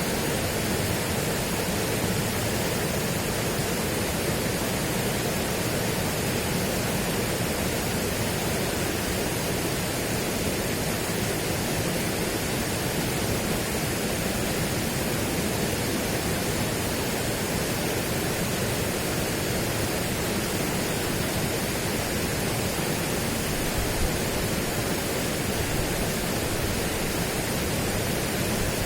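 Steady, even rushing noise that does not change in level.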